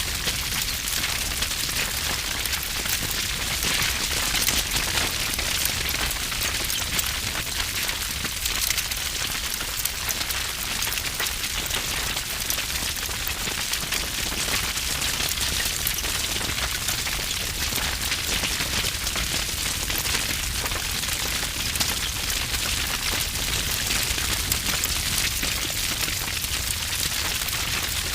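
Wood fire burning with dense, continuous crackling and popping over a low rumble of flame.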